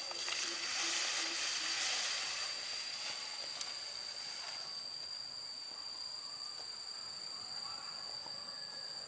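Insects trilling, a steady high-pitched drone, over an outdoor hiss that eases after the first two or three seconds.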